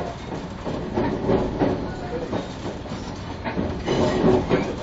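A 373 series electric train in motion, heard inside the car: steady rumble of wheels on the track with irregular clattering knocks.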